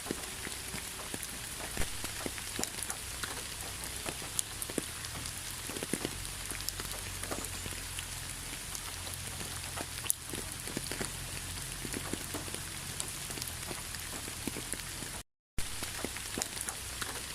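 Steady rain falling, with many individual drops ticking through the even patter. The sound cuts out completely for a split second about fifteen seconds in.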